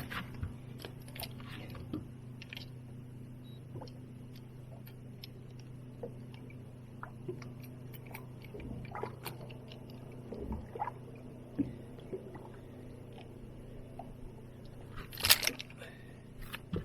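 Small clicks and knocks of a freshly caught smallmouth bass being handled and weighed on a fish scale in a boat, over a steady low hum, with a louder cluster of knocks about fifteen seconds in.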